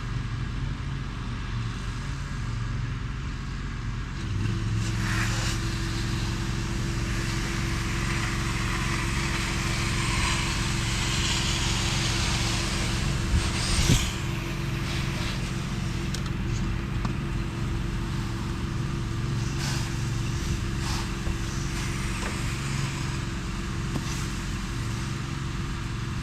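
Pressure washer running steadily, its motor and pump droning under the hiss of water spraying, as cleaning solution is sprayed on to dwell. About four seconds in the sound grows louder and a steady hum joins in.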